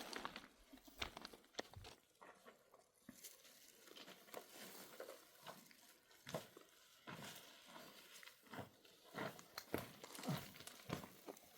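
Faint, irregular crunches and clicks, a few each second, with nothing steady beneath them.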